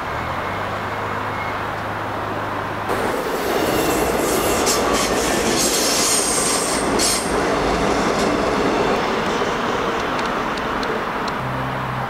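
Electric commuter train passing close by: a loud rush of wheels on rails with clacking strikes and a high wheel squeal, easing off after a few seconds. Before it and again near the end, a steady low hum.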